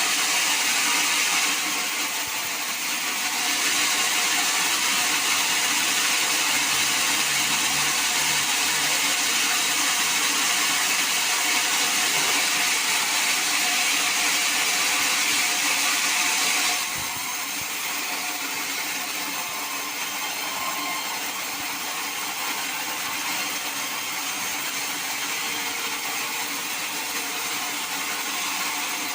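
Sawmill saw running with a steady, high-pitched rushing noise. It dips briefly about two seconds in, then drops to a quieter, steady run a little past halfway.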